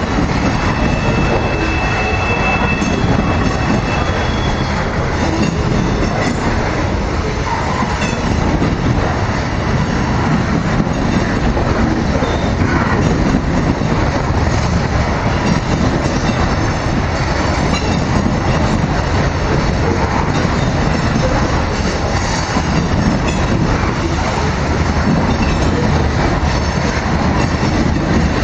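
Loaded grain train's covered hopper cars rolling past, a steady rumble of wheels on rail with clacking over the joints. A faint high wheel squeal sounds in the first few seconds.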